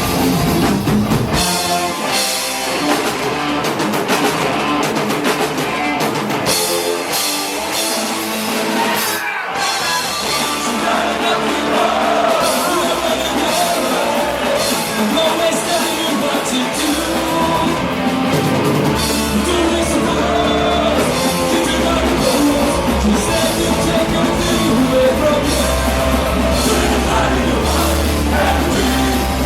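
Punk rock band playing live: fast drums, distorted electric guitars and bass, with singing. The band breaks off for an instant about nine seconds in, then comes straight back in.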